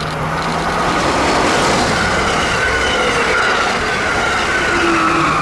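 Amtrak passenger train passing close at speed, a Metroliner cab car leading and an ACS-64 electric locomotive pushing at the rear. It makes a loud rush of wheels on rail, with whining tones that slowly fall in pitch as it goes by.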